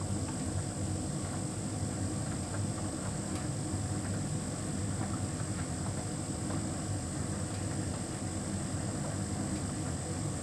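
Hotpoint heat pump tumble dryer running a large load: a steady hum and low rumble from the drum and machinery, with a few faint ticks.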